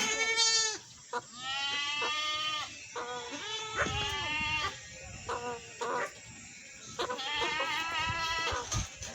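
Goat bleating repeatedly: five or six wavering, quavering calls, some long and some short, with brief pauses between them.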